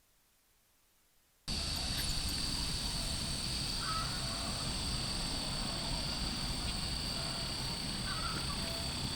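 Near silence for about a second and a half, then outdoor countryside ambience: a steady high-pitched chirring of insects with a few brief bird calls.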